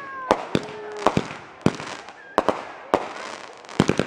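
Fireworks going off: an irregular series of about a dozen sharp bangs, some in quick pairs. Fading whistles from a whistling firework tail off at the start.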